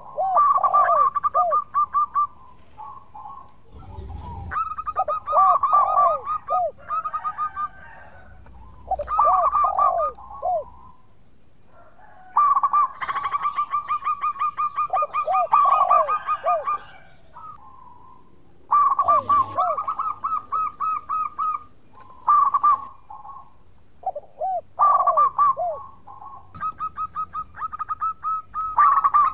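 Zebra dove (local perkutut) singing its cooing song: bouts of rapid rolling notes over lower falling coos, repeated every few seconds.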